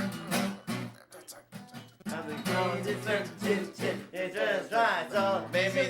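Acoustic guitar playing sustained chords, dropping out for about a second, then resuming as a man's voice comes in over it, half singing and half speaking without clear words.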